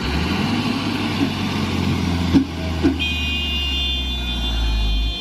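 Diesel engine of a Fuso dump truck running with a steady low drone that cuts off sharply near the end, with a couple of short knocks midway. From about three seconds in, a high steady tone sounds alongside it for about two seconds.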